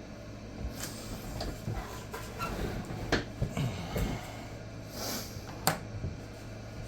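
A few sharp knocks and clicks from things being handled and set down on a work surface, with some brief rubbing, over a steady low hum.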